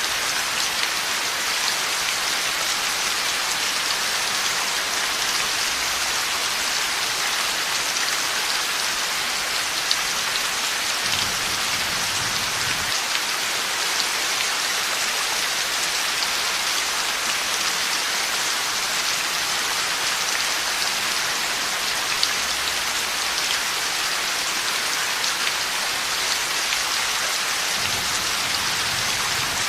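Heavy rain falling steadily in a dense, even hiss, with a faint low rumble of distant thunder about eleven seconds in and again near the end.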